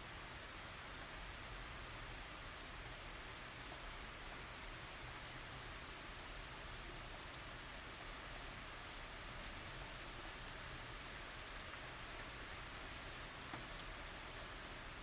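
Steady tropical rain falling: a continuous even hiss with many scattered sharp drop ticks.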